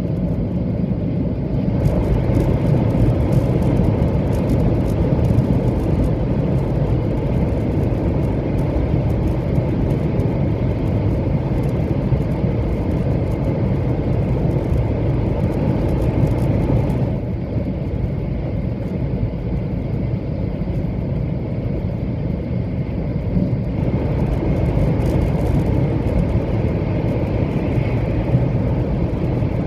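Running noise of a 700-series Shinkansen train at speed, heard inside the carriage: a steady low rumble. A thin crackling hiss comes in about two seconds in, drops away about halfway through and returns a few seconds later.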